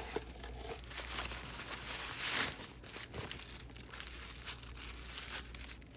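Plastic packaging crinkling and rustling as it is handled and unwrapped, loudest about two and a half seconds in.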